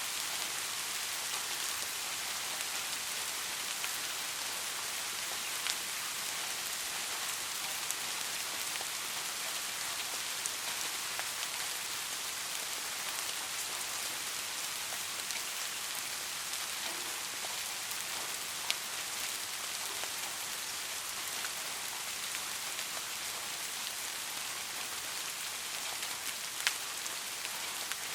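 Steady rain falling on a street, an even hiss of drops on hard surfaces, with a few sharper single drip impacts standing out now and then.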